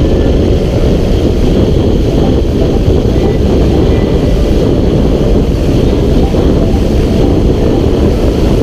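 Motorcycle riding at speed: heavy wind noise on an action-camera microphone, with the engine running steadily underneath.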